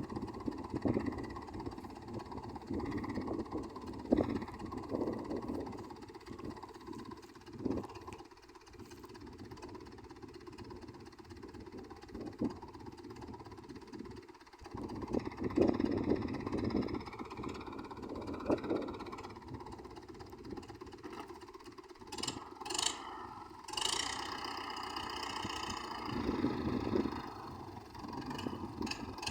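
UTB Universal U650 tractor's diesel engine running under changing load, its sound swelling and easing, with a few sharp knocks about three-quarters of the way through.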